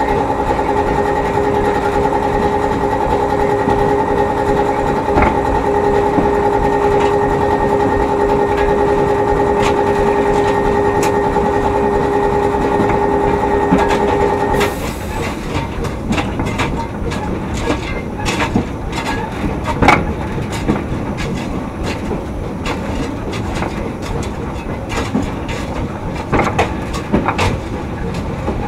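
A narrow-gauge steam train running on its track, the wheels clicking and knocking over rail joints. For the first half a steady hum of several pitches sounds over it, then cuts off suddenly about halfway through.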